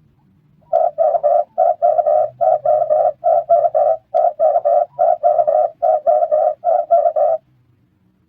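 Red turtle dove giving its call: a fast, even run of short, low coos, about four a second, lasting some six seconds.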